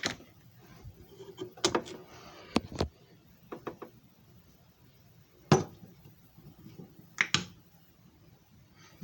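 Scattered knocks and clicks of hard objects being handled, about eight in all, the loudest about five and a half seconds in.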